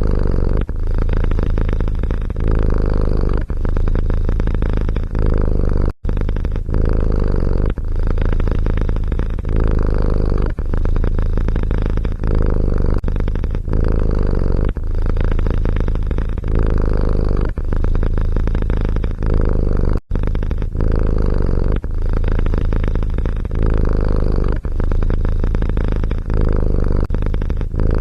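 A domestic cat purring loudly and close, the purr swelling and easing in a steady cycle about once a second. It cuts out abruptly twice, for a split second each time.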